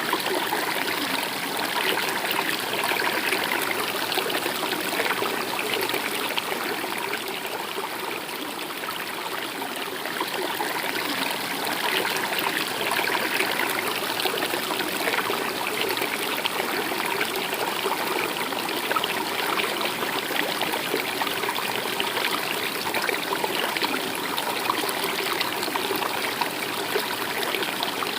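Stream water flowing and trickling steadily over stones.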